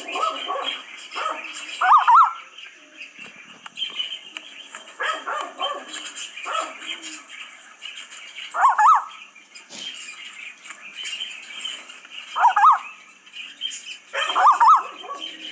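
A bird calling: four loud, short, wavering calls spread irregularly, with quieter chattering between them.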